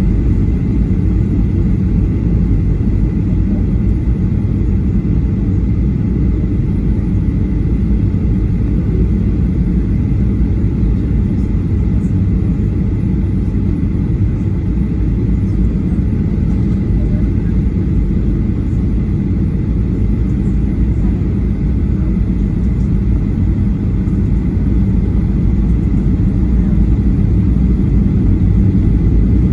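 Steady low rumble of a Boeing 737-800's CFM56-7B engines and airflow, heard from inside the cabin near the rear, with a faint steady high whine above it.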